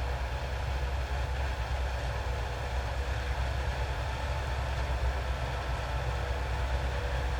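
Holmer Terra Dos T4-40 sugar beet harvester running steadily: a low diesel engine drone with a faint steady hum above it.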